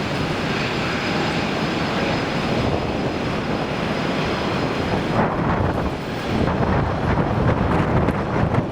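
Airliner engine noise mixed with strong wind buffeting the microphone. A faint steady high whine sits over the engine noise at first; from about five seconds in, the wind gusts take over with uneven low rumbling.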